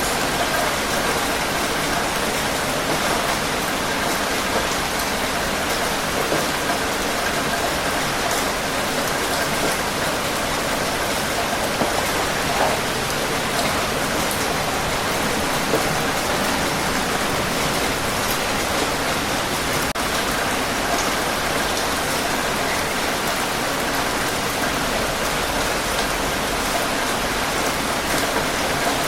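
Steady heavy rain falling on surfaces, an even dense hiss with scattered individual drop ticks.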